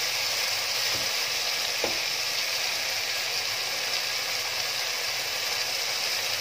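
Chicken pieces sizzling steadily as they sauté in hot oil in a pot, with a wooden spatula knocking faintly against the pot about one and two seconds in.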